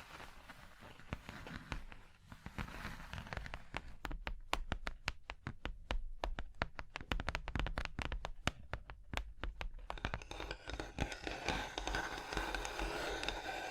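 ASMR tapping on an object with fingers or nails: quick, sharp taps at about five or six a second through the middle of the stretch. Near the end they give way to a denser scratching.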